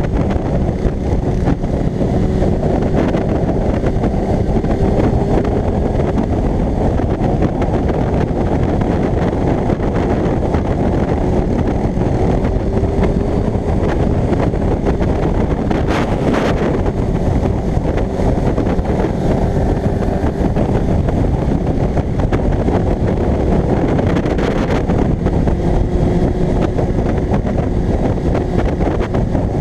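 Kawasaki ZX-6R J1's inline-four engine running at a steady cruise, its tone drifting only slightly in pitch, with wind rushing over the microphone.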